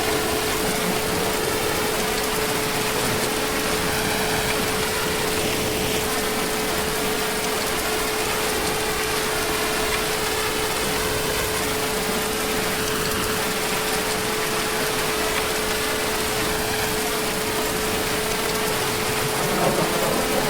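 Heavy rain falling steadily, with a steady hum running under it.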